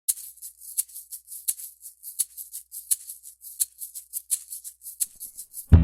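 Shaker or maraca playing a steady rhythm, accented about every three-quarters of a second, as a music intro; right at the end a guitar-led band comes in.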